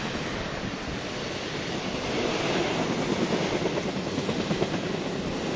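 Passenger train passing directly below: wheels running on the rails, growing louder about two seconds in, with a quick uneven rattle of the carriages going by.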